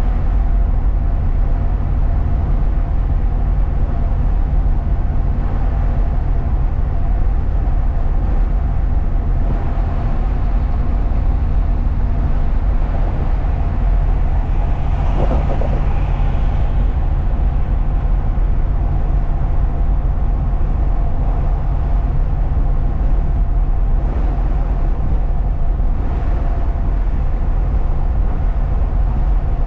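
A truck driving at steady speed, heard from inside the cab: a constant low engine and road rumble with a few steady tones in it. A brief swell of higher noise comes about halfway through.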